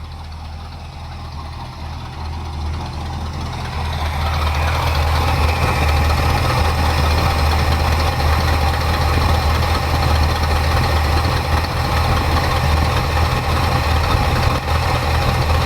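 A 1977 Ford Ranchero's 351 Windsor V8 idling steadily after a carburettor rebuild, while its idle mixture is being set. It grows louder over the first few seconds, then holds steady.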